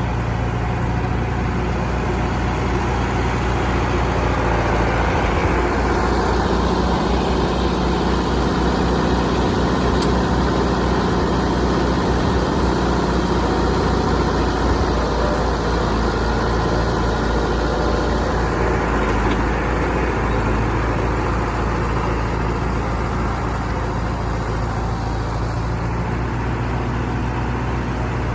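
International Harvester 574 tractor engine running steadily, its note shifting for a stretch in the middle.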